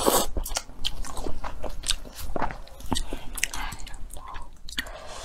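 Close-miked chewing and biting of food: an irregular run of short wet smacks and clicks.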